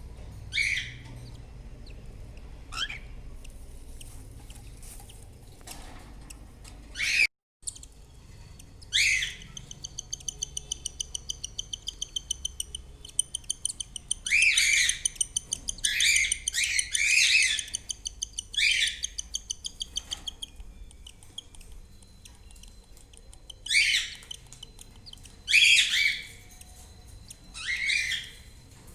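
Cockatiels calling in a nest box: about a dozen short, sharp calls that fall in pitch. In the middle comes a rapid, rhythmic pulsing chatter of about five pulses a second, the food-begging of cockatiel chicks being fed.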